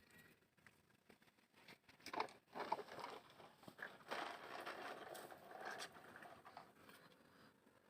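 Plastic toy trucks being handled and pushed along a surface, a rough scraping and rustling with small clicks and knocks for several seconds.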